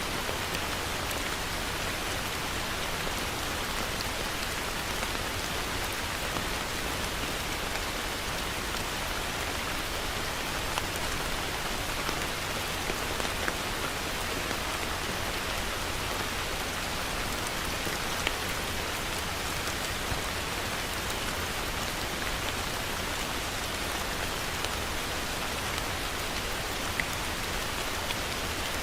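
Heavy rain falling steadily in a dense, even hiss, with a few sharper drop ticks standing out here and there.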